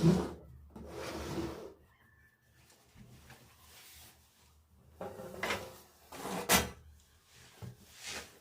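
Household handling sounds during cleaning: a loud thump at the start, a rubbing scrape about a second in, then a few sharper knocks and scrapes later on.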